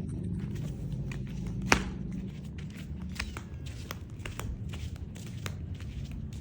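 A cat purring with a low, steady rumble that slowly fades, under scattered sharp clicks and rustles, with one loud click about two seconds in.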